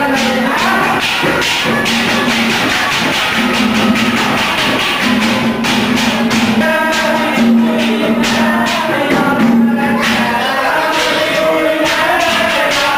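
Instrumental music of a Haryanvi ragni: a held low note comes back in phrases about a second long over fast, jangling percussion.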